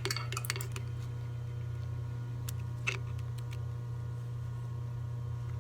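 Light metallic clicks of pliers on the shank of a drill bit stuck in a steel part as it is worked to turn it backwards. There is a quick cluster of clicks at the start and two more single clicks around two and a half to three seconds in. A steady low electrical hum runs underneath.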